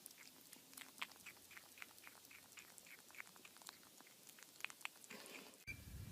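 Faint, irregular crunching clicks of a pet chewing. About five and a half seconds in they give way to a low steady hum.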